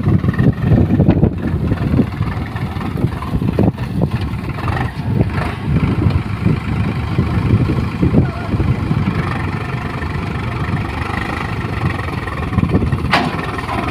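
Heavy diesel machinery engine running steadily with a low, uneven rumble. A sharp knock comes near the end.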